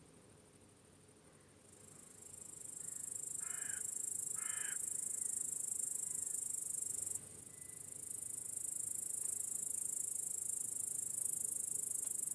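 Crickets in a meadow, a dense, very high-pitched chirring that swells in about two seconds in, drops out for a moment near the middle and comes back. Two short harsh caws, like a crow's, sound a few seconds in.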